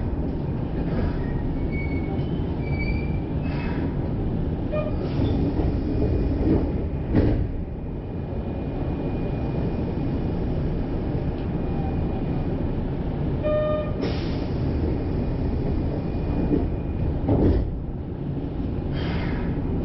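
Kyoto subway Karasuma Line train running between stations, heard from inside the car: a steady rumble of wheels on rail, with a few brief louder rattles and short tones along the way.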